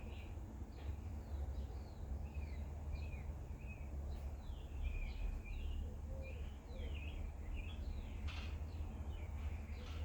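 Several small birds chirping and twittering in quick, short calls throughout, over a steady low rumble.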